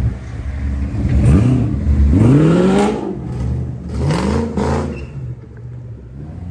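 A vehicle engine at idle is blipped three times, its pitch sweeping up and back down each time, the middle rev the longest and loudest; the idle fades near the end.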